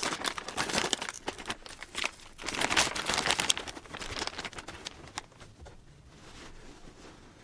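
Plastic packaging crinkling as a memory foam lumbar cushion is unwrapped, dense for about the first four seconds, then fading to faint rustling.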